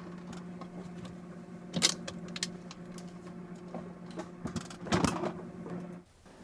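A steady low mechanical hum, with a few sharp clicks or knocks over it, the loudest about two seconds in and five seconds in. The hum cuts off suddenly near the end.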